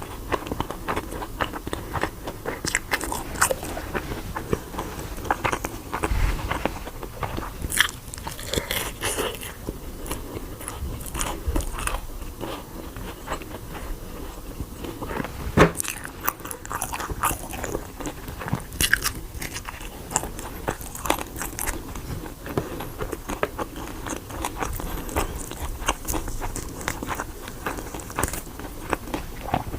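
A person biting and chewing crunchy food, with frequent irregular crisp crunches and crackles.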